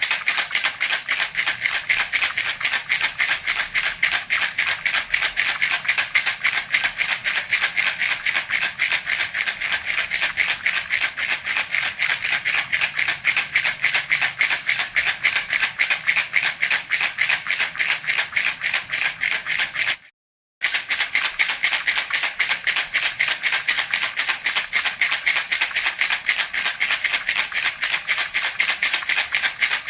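Baby rattle (jhunjhuna) shaken rapidly and steadily, a continuous dense rattling with a brief half-second gap about two-thirds of the way through.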